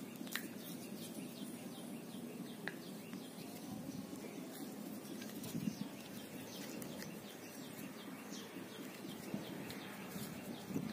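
Small birds chirping over and over in the background, with a couple of faint clicks from plastic pump parts being handled and fitted together.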